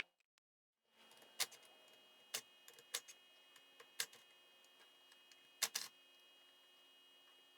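Scattered sharp clicks and light taps from hand tools and metal parts being handled during disassembly of a two-stroke motorcycle engine, about five or six over several seconds, starting after a second of silence, over a faint steady hum.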